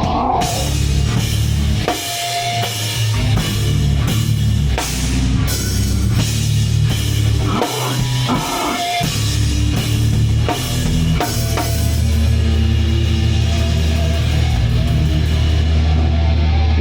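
Live heavy metal band playing loud: a drum kit with cymbal crashes under distorted guitars and bass. In the last few seconds the drums thin out and a low chord is held and left ringing.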